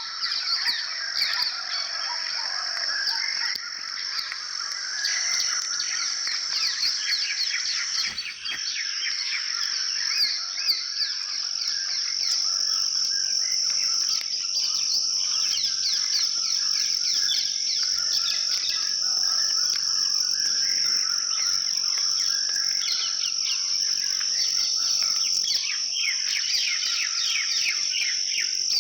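Outdoor ambience of insects keeping up a steady, high-pitched drone while many small birds chirp and twitter over it.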